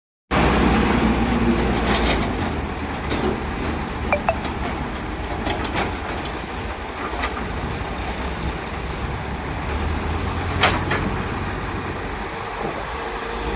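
JCB 3DX backhoe loader's diesel engine running with a steady low rumble, starting abruptly, with scattered metallic knocks and clanks; the sharpest knock comes about two-thirds of the way in.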